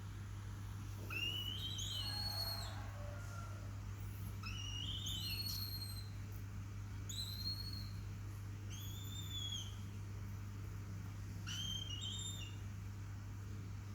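Young falcon calling: five high, arched, whistling cries, each about half a second to a second and a half long, coming every two to three seconds, over a steady low hum.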